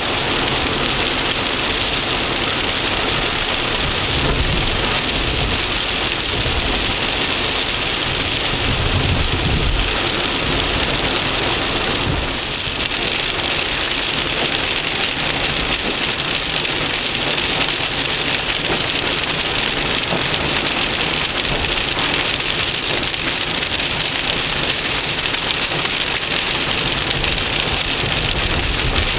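Heavy rain falling in a steady, loud hiss, with a low rumble about nine seconds in.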